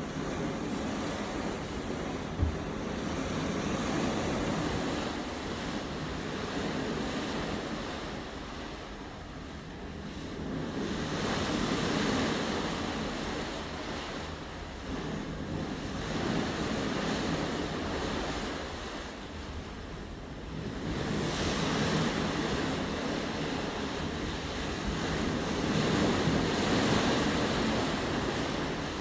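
Ocean water rushing and washing alongside a cruising boat, swelling and easing every few seconds, with wind buffeting the microphone. A single short knock about two seconds in.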